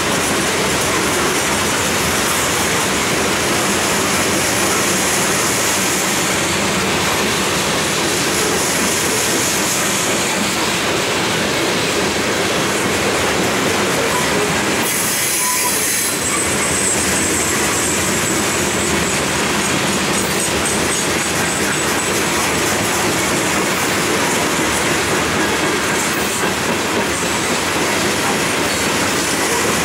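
Norfolk Southern freight train's covered hopper cars rolling past close by: a steady rumble of steel wheels on rail with clickety-clack over the joints and some high wheel squeal.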